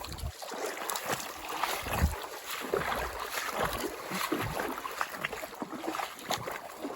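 Water splashing and sloshing as a hooked wild brown trout is fought and brought in, with irregular clicks and knocks and a couple of low thumps.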